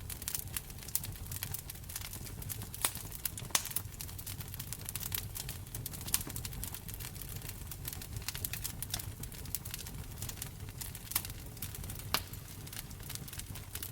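Wood fire crackling, with frequent irregular sharp pops and snaps over a steady low rumble of the flames; a few louder pops come about three seconds in and again near the end.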